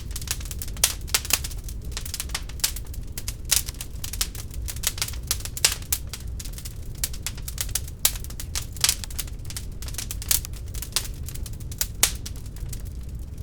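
Wood fire burning in a fireplace, crackling with irregular sharp pops over a low steady rumble; a few louder pops stand out, one near the end.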